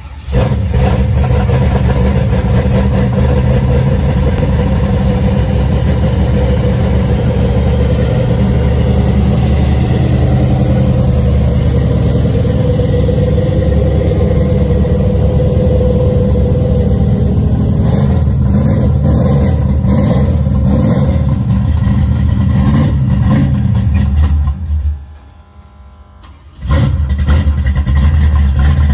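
Naturally aspirated 464-cubic-inch Buick big-block V8 with Stage 2 TA Performance heads, running loud and steady. It comes in abruptly at the start, drops away for about two seconds near the end, then comes back.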